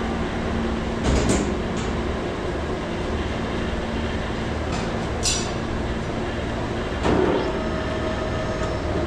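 Steady machinery hum with a held low tone, broken by a few sharp clinks and knocks: about a second in, around five seconds in and about seven seconds in.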